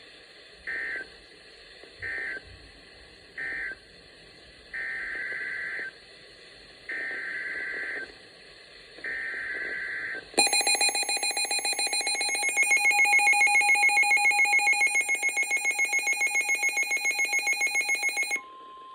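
NOAA Weather Radio alert sequence: three short screeching data bursts, then three longer bursts of the same digital alert code, followed by about eight seconds of a loud, rapidly pulsing electronic beep from the weather radio receiver's alarm, which cuts off suddenly. This is the alarm for a blizzard warning message.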